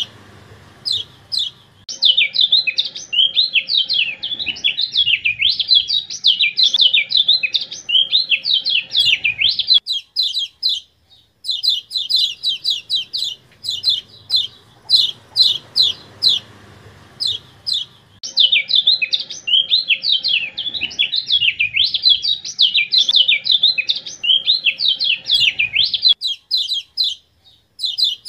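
Kecial kuning white-eye song: rows of quick, high, repeated chirps (the 'ciak ciak' call) breaking twice into long runs of fast, jumbled warbling, with short pauses between.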